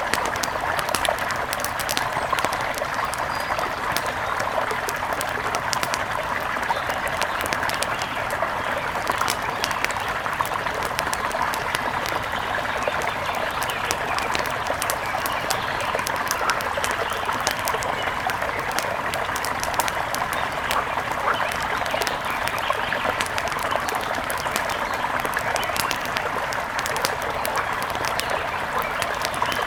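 Wood fire crackling, with frequent sharp pops and snaps scattered over a steady rushing hiss.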